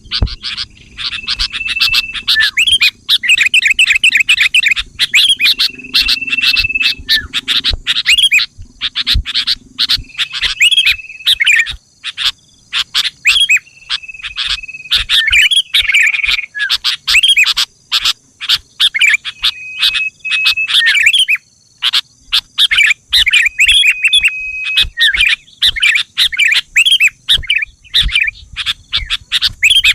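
Sooty-headed bulbul (kutilang) calling: a dense, unbroken run of quick chirps and chattering notes, broken every few seconds by a short steady whistled note.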